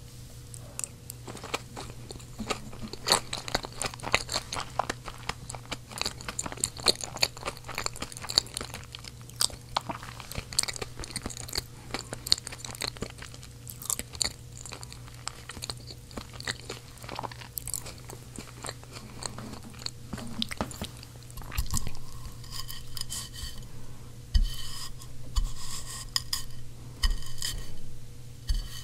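Close-miked chewing of small seasoned roasted potatoes: dense, irregular wet mouth clicks and soft crunches, with a faint steady low hum underneath. Near the end come a few short ringing scrapes of a fork against the plate as another potato is speared.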